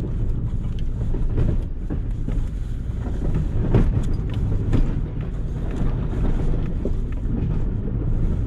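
Snowplow truck running, heard from inside the cab, with a steady low rumble and occasional knocks and clunks from the plow working the gravel driveway.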